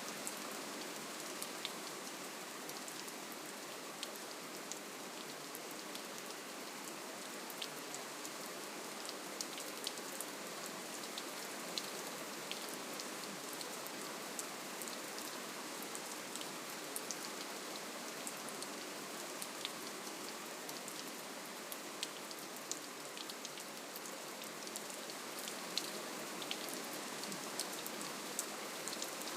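Steady, soft rainfall: an even hiss of rain with scattered close drops ticking throughout, no thunder or sudden changes.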